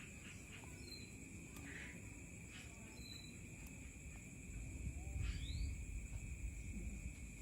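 Outdoor ambience: a few short bird chirps and one quick rising call over a steady high insect-like hum. A low rumble swells in the second half.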